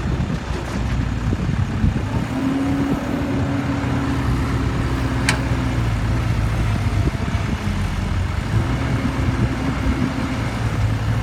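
Heavy diesel engine running steadily, with a single sharp click about five seconds in.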